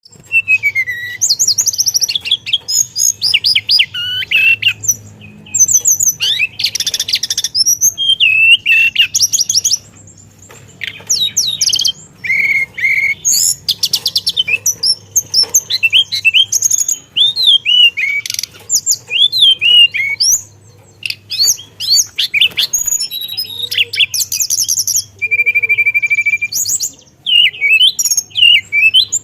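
Teledekan songbird singing almost without pause: a long run of fast, varied chirps, whistles and trills, with mimicked phrases mixed in and one held, even whistle near the end. A faint steady low hum runs underneath.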